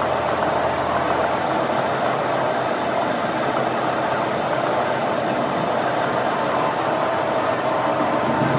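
A machine running steadily with an even, continuous noise.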